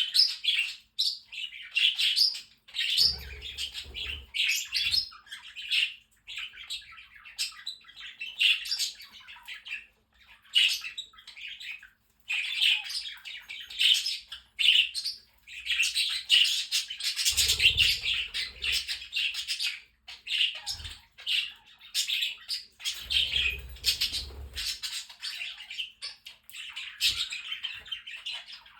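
A flock of pet budgerigars, with parrotlets and cockatiels among them, chattering, warbling and chirping without a break, with squawks mixed in. Three times a low rumble lasting a second or two runs under the chatter.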